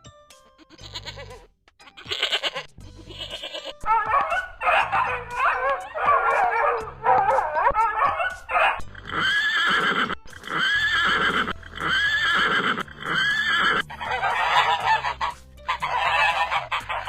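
A sequence of farm animal calls over background music: bleats with a wavering pitch, then four evenly spaced arching calls, then a rougher, noisier call near the end.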